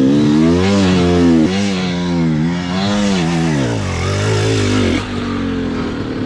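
Dirt bike engine revved in repeated throttle blips, its pitch rising and falling about once a second. It drops to a lower pitch about four seconds in and cuts off abruptly about a second later.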